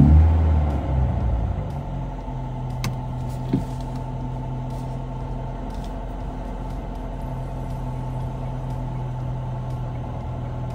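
A Mercedes-AMG GLA 35's 2.0-litre turbocharged four-cylinder started with Emotion Start, heard from inside the cabin: it fires with a loud rev flare that fades over about two seconds, then settles into a steady idle.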